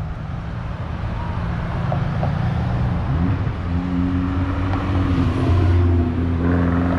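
Car engine idling low, then rising in pitch about three seconds in and holding at a higher, steady note as the car pulls away slowly. The loudness builds gradually.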